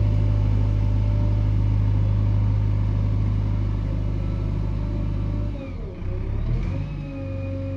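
JCB 3DX backhoe loader's diesel engine running steadily. About five and a half seconds in, its note drops and wavers, and a higher whine comes in near the end.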